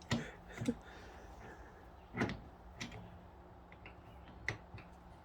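Several short clicks and knocks from a glue-pull dent repair puller working on a glued tab on the car panel. The loudest comes about two seconds in, over a faint steady hum.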